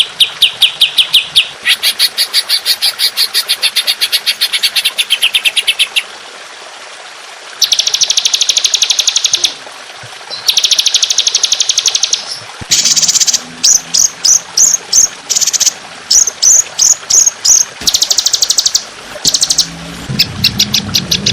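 Songbird song used as masteran: long, dense rapid-fire trills of repeated high notes ('tembakan'), in runs of one to four seconds with short gaps. Later come strings of separate quick down-slurred notes.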